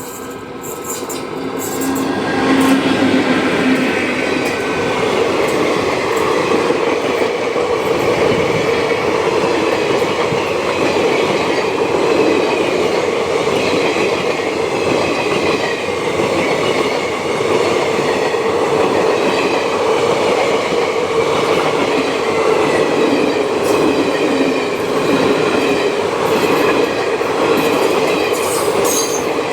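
An electric-hauled Indian Railways train running past at close range. The rumble and clatter of its wheels on the rails build over the first few seconds, then hold steady, with faint wavering squeals from the wheels.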